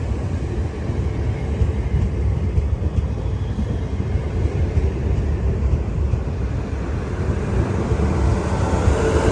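Train running past, a steady low rumble, with a single steady higher tone coming in near the end.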